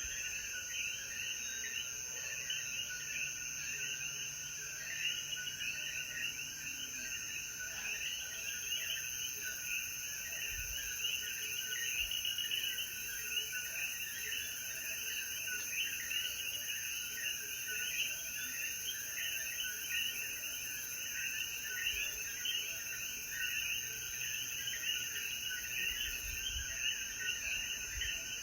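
Dense night chorus of common coquí frogs, many overlapping short two-note rising "co-quí" calls, with a steady high insect trill underneath.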